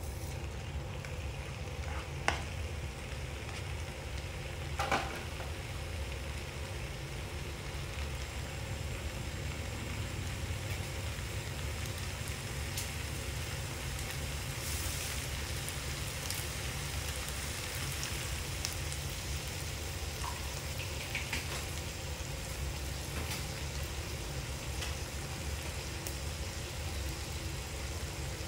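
Pork belly, kimchi and glass noodles sizzling steadily in a nonstick frying pan, with scattered small crackles and a steady low rumble underneath. A plastic turner knocks against the pan twice early on, about 2 and 5 seconds in, while the food is being stirred.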